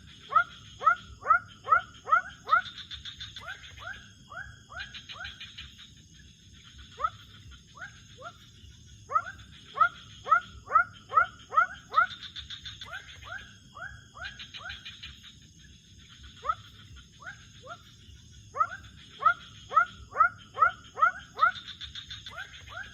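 Animal calls in the night: bouts of quick rising chirps, about three a second, stop and start several times over a steady high drone of insects.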